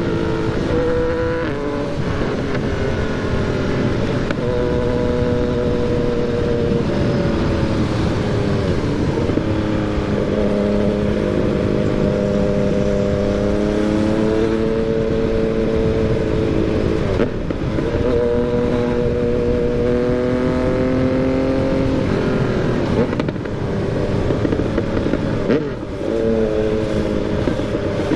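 Yamaha MT-09's inline three-cylinder engine pulling steadily while riding. Its pitch climbs slowly under light throttle and drops back at each gear change, several times.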